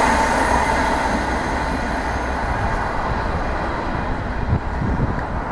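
InterCity 225 electric express train, Mark 4 coaches with a driving van trailer at the rear, running past and receding. Its wheel and rail noise fades steadily, and a whine in the first second dies away.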